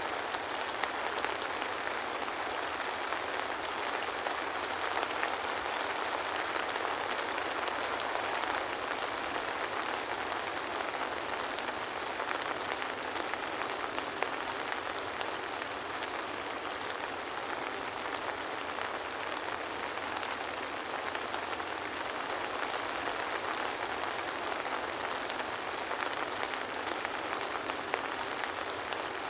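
Steady soft rain falling, an even patter with scattered tiny drop ticks and no thunder.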